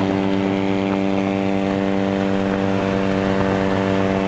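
Mazda RX-7 FD's rotary engine running loud and steady, its buzzing note held at one unchanging pitch.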